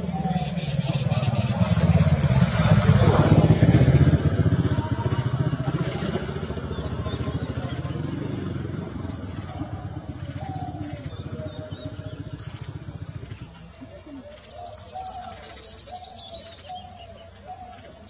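Short, high, rising bird chirps repeated every second or so, with a brief rapid trill near the end. Under them is a low rumble, loudest in the first few seconds, that fades out by about two-thirds of the way through.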